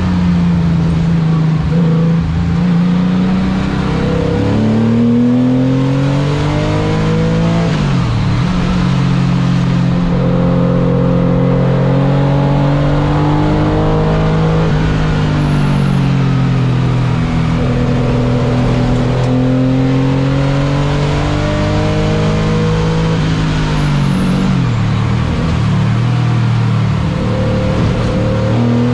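Car engine driven hard through a track lap, its pitch climbing steadily under throttle and dipping sharply twice, about eight seconds in and again near twenty-four seconds, as it brakes and shifts for corners.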